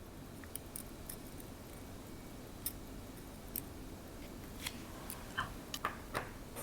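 Small sharp clicks and taps of metal watchmaker's tools on a vintage watch movement during disassembly, about a dozen of them, sparse at first and coming closer together in the second half, over a faint steady hiss.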